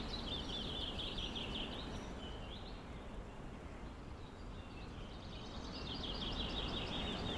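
Outdoor ambience: a steady background hiss with high, rapid chirping trills, once in the first two seconds and again from about five and a half seconds in.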